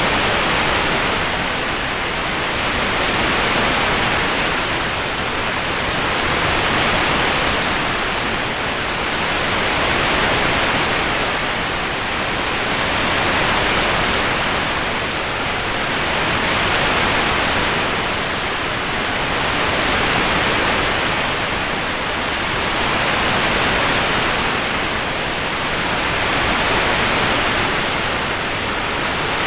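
Steady rain-sound hiss, swelling and easing gently about every three and a half seconds.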